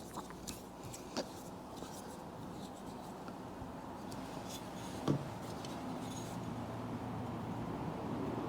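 Faint handling noises: a few light clicks and rubs, the loudest about five seconds in, over a low rumble that slowly grows louder toward the end.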